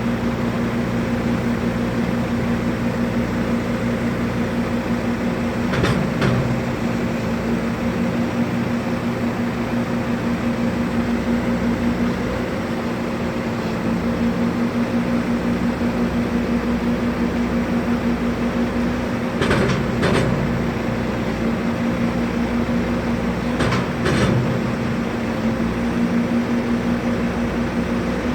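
A steady mechanical hum with a fast, even pulse, broken by a few brief knocks, once about six seconds in and twice later on.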